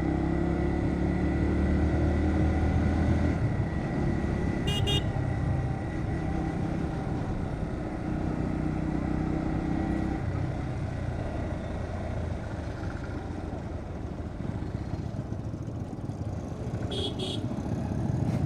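Bajaj Pulsar NS125's single-cylinder engine running while riding through city traffic, its note rising and easing off. Short horn beeps come twice, about five seconds in and near the end.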